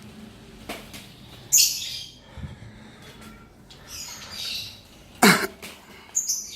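Pet bird giving several short, harsh, high-pitched calls. The loudest comes about five seconds in and falls in pitch.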